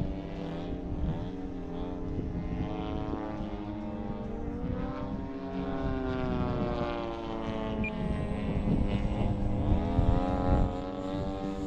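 Electric motor and propeller of a 67-inch Extra 260 RC aerobatic airplane in flight, its pitch rising and falling as the throttle and the plane's distance change through the manoeuvres.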